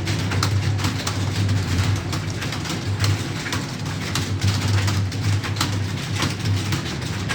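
Several computer keyboards being typed on at once, a dense, irregular clatter of key clicks, over a steady low hum.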